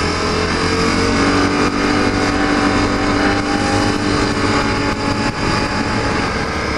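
ATV engine running steadily under way on a trail ride, its hum holding at an even pitch with a broad rushing noise.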